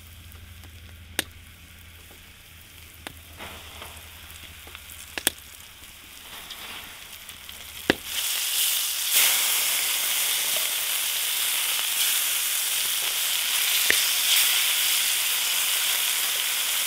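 Floured grouse pieces frying in moose fat in a cast iron skillet. The first half is fairly quiet with a few sharp clicks. About eight seconds in, a loud steady sizzle starts and carries on.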